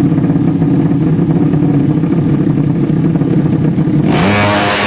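Drag-race motorcycle engines running at idle, then about four seconds in one revs up hard, its pitch climbing, with a loud hiss.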